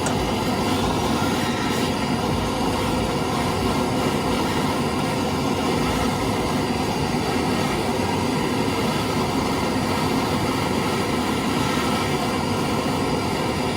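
A loud, steady mechanical drone, like a machine running at constant speed, that starts and stops abruptly with no change in between.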